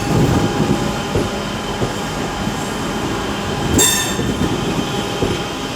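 Electric multiple-unit train running through the platform, a steady rumble with faint motor tones, and a short high-pitched wheel or brake squeal about four seconds in.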